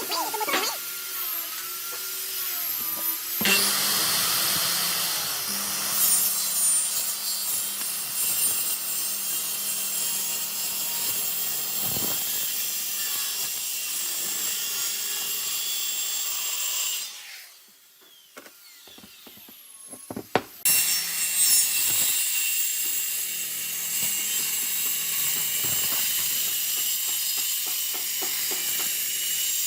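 Power tool working wood: a steady motor hum under a hissy cutting or sanding noise. It stops for a few seconds a little past the middle, then starts again.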